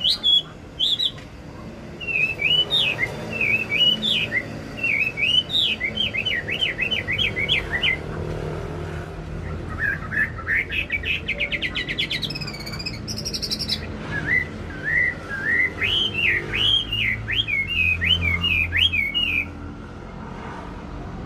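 A wambi singing in bursts of rapid chirping, whistled notes. Partway through comes a fast trill that climbs higher. This is a bird in full, vigorous song, the kind of recording played to lure other birds into singing.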